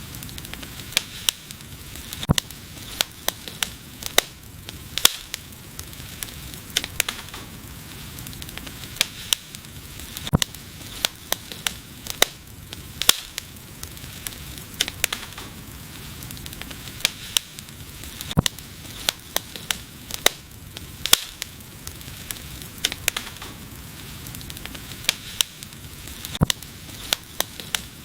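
Wood fire burning, with frequent sharp, irregular crackles and pops over a soft steady hiss.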